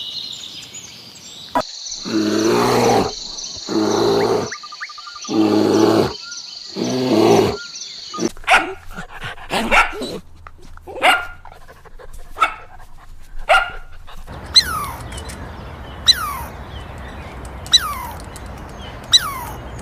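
A dog barking: first four longer calls about a second each, then a quick run of short, sharp barks. Near the end the dog sounds give way to a series of short, high, falling chirps.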